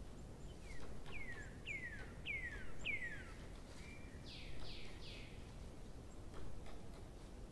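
A songbird calling: a quick run of five falling notes, a short steady note, then three rougher sweeping notes.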